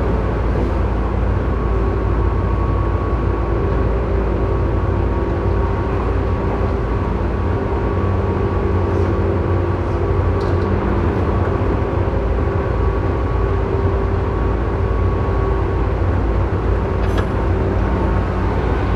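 Tobu 9000 series EMU running between stations, heard from inside the motor car above its armature chopper control. The chopper gives off a steady whine of several held tones over the rumble of wheels and motors; this car's chopper is known for its abnormal noise.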